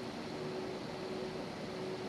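Airbus A320neo cabin noise with the engines running: a steady hum and rush of air and engine noise, with a faint steady whine.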